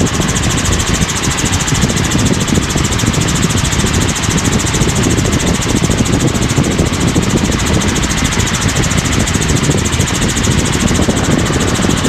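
Helicopter in cruise flight heard from inside the cabin: a steady drone of engine and rotor.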